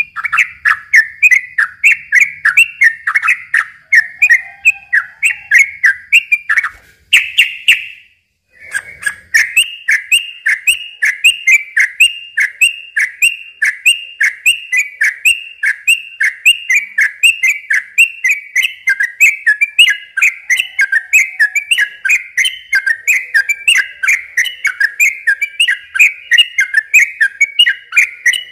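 Sooty-headed bulbul (trucukan) singing a long, fast run of short repeated whistled notes, about three a second, breaking off briefly about eight seconds in and then carrying on.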